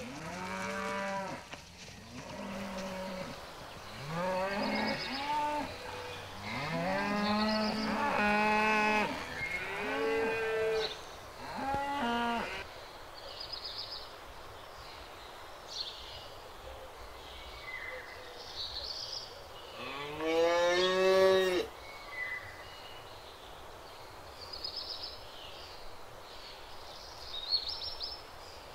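Cattle mooing: a run of moos from several cows, some overlapping, through the first dozen seconds, then one loud, long moo about two-thirds of the way through.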